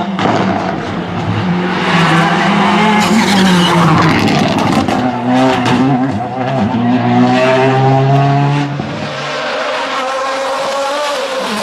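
Car engine running hard, its pitch rising and falling with the revs, over road and tyre noise; it quietens somewhat about three quarters of the way through.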